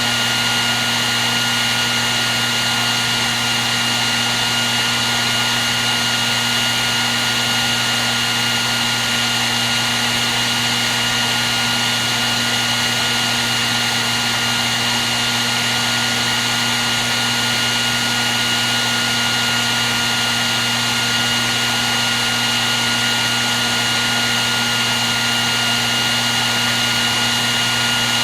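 Hair dryer running continuously: a steady rush of blown air with an even motor whine, unchanging throughout.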